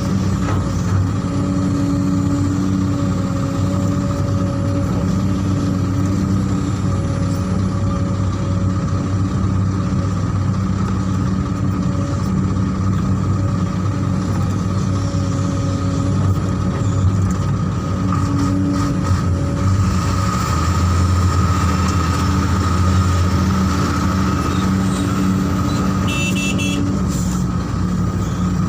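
Heavy diesel engine running steadily, pulling harder for a few seconds around twenty seconds in. A short run of high beeps comes near the end.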